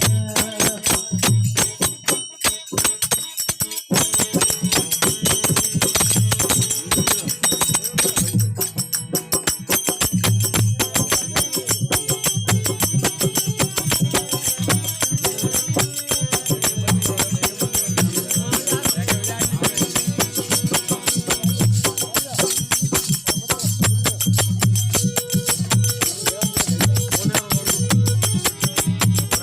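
Rajasthani devotional bhajan music: jingling hand percussion over a steady low drum beat.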